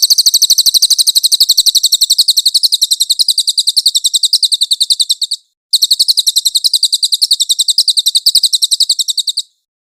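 Cililin songbird giving a rapid, high-pitched chattering trill: many evenly spaced chirps a second. The trill breaks off briefly about five and a half seconds in, then a second run follows and stops shortly before the end.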